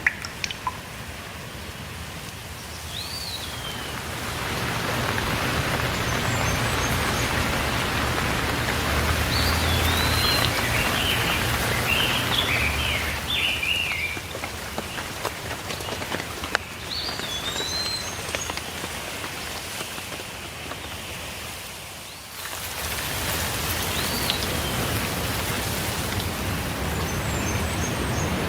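Steady rainfall with birds calling over it: short curved whistles every several seconds and a quick run of chirps about ten seconds in. The rain swells a few seconds in and briefly drops away about three-quarters of the way through.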